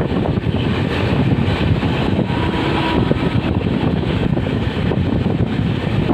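Train running through a railway station: a steady, loud rumble and rattle, with wind buffeting the microphone.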